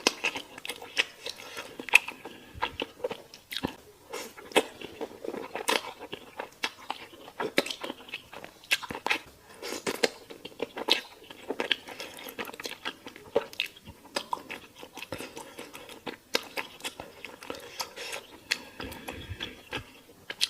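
Close-miked eating sounds: a person biting into and chewing crunchy fried chicken, with many sharp, irregular crunches a few times a second between wetter chewing.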